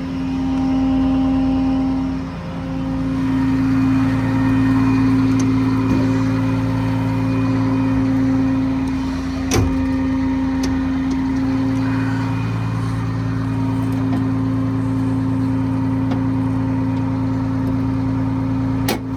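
Diesel engine of a 2006 Peterbilt 335 service truck running steadily, a low steady hum that swells and eases slightly. A single sharp knock comes about halfway through, and a couple of clicks come near the end.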